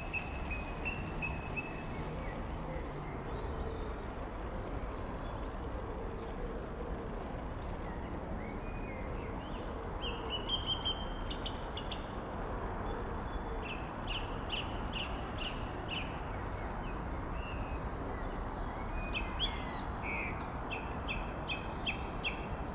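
Small birds singing in short, repeated trilled phrases, clearest about halfway through and again near the end, over a steady low rumble. The hum of the departing BR Class 37 diesel locomotives fades out in the first few seconds.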